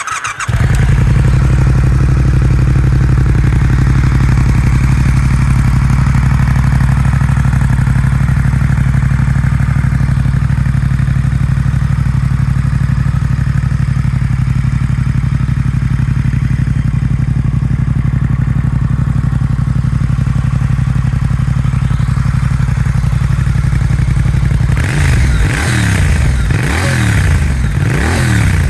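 Triumph Speed Twin 1200's parallel-twin engine catching, then idling steadily through louder aftermarket silencers; near the end the throttle is blipped several times, the revs rising and falling.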